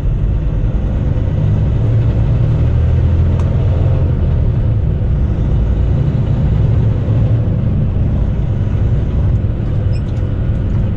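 Semi-truck's diesel engine and road noise heard from inside the cab while driving: a steady low rumble.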